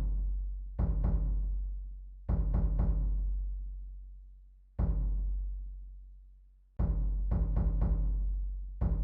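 Slow, calm drum music: deep drum strokes struck in short clusters of two to four quick hits, with pauses in which the low boom rings on and fades away.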